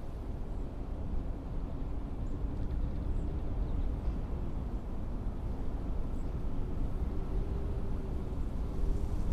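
Blizzard wind blowing in a steady low rumble, with a faint howling tone rising and falling through the gusts.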